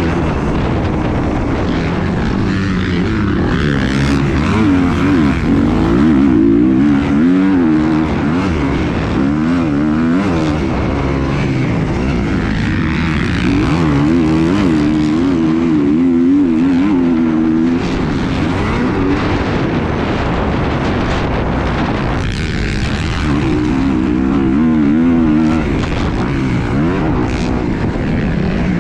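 A propeller engine droning, its pitch wavering up and down over and over.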